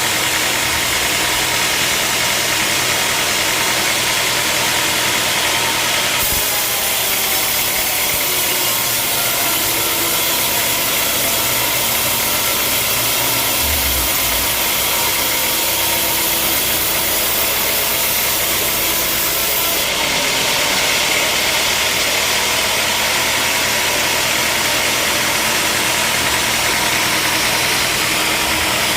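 Sawmill machinery running steadily with an engine note underneath. From about six seconds in to about twenty seconds in, a harsher high hiss joins.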